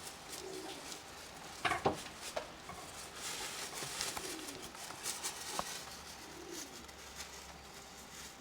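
Domestic pigeons cooing softly a few times over the steady patter of rain. A couple of sharper knocks come about two seconds in.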